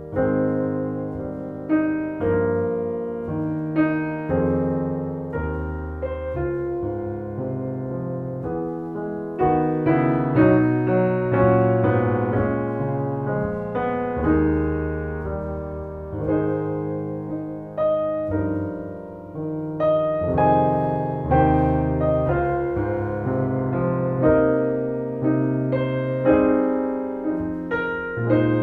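Solo piano music: a slow, gentle piece with chords struck about once every second or two, each ringing and fading before the next.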